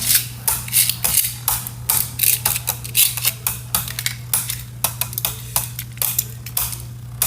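Spinning Beyblade Burst tops clashing in a plastic stadium: rapid, irregular sharp clacks as the tops hit each other and the stadium walls, thickest in the first few seconds and then sparser, over a steady low hum.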